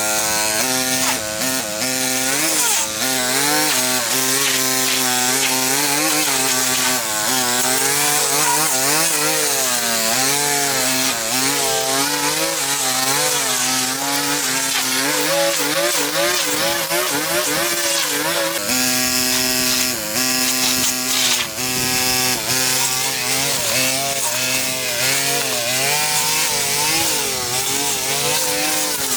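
Small two-stroke power-tool engine, such as a brush cutter or chainsaw, running under load, its pitch wavering up and down continuously and holding steadier for a few seconds about two-thirds of the way through.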